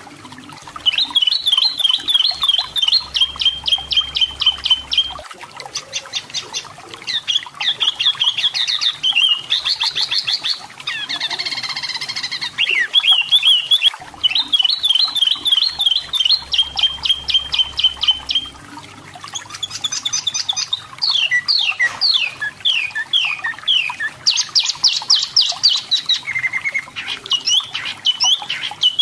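Pin-striped tit-babbler (tepus lurik, sold as 'wambi mini lokal') singing: rapid high trills and quickly repeated chirping phrases a few seconds long, broken by a harsher chattering burst near the middle and a run of sharp down-slurred notes later on.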